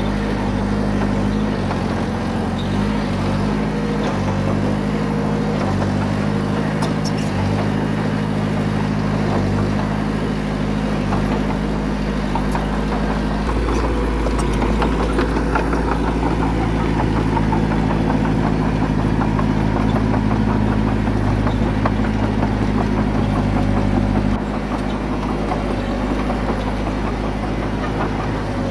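Bulldozer's diesel engine running steadily. About halfway through its note changes and it gets louder, with a clattering rattle over it, for about ten seconds before it settles back.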